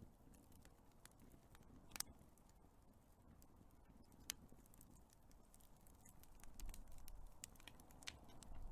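Wood fire crackling: scattered sharp pops and snaps over a low hiss of flame, one loud pop about two seconds in and another about four seconds in. The low background grows louder in the last few seconds.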